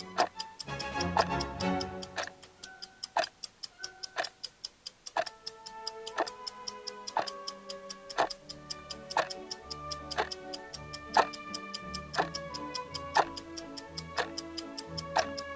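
Clock ticking about twice a second, with a stronger tick each second, over background music.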